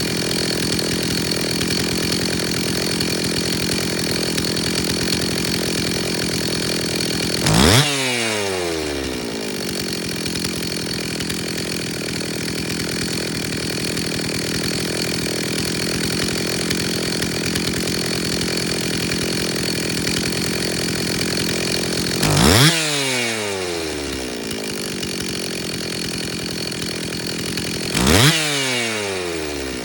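Stihl 034 two-stroke chainsaw engine idling steadily, blipped three times: it revs up quickly and winds back down to idle each time.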